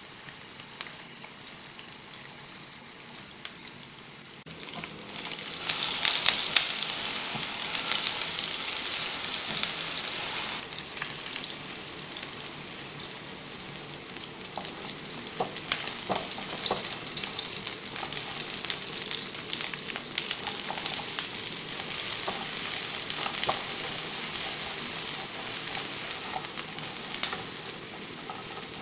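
Cubes of firm tofu frying in oil in a nonstick pan, sizzling steadily, much louder from about four seconds in. A few sharp clicks of a spatula stirring and turning the cubes come around the middle.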